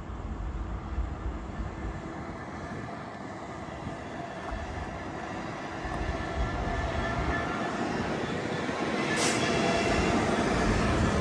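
A train approaching, its rumbling running noise growing steadily louder, with a short sharp hiss about nine seconds in.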